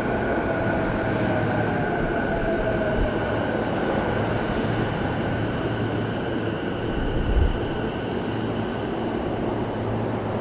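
Electric commuter train pulling into the platform: a steady rumble of wheels and running gear, with a motor whine that falls in pitch over the first few seconds as it slows. A brief low bump comes about seven seconds in.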